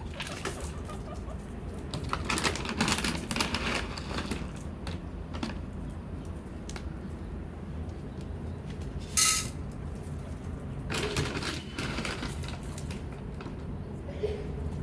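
Guinea pigs wheeking, the squeal they make when hungry and wanting food, with one short, loud squeal about nine seconds in. Between the calls there is irregular rustling and clicking.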